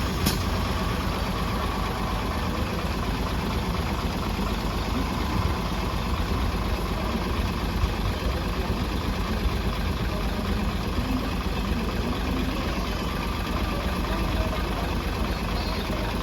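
Bus engine idling steadily just after being started, with one short click right at the start.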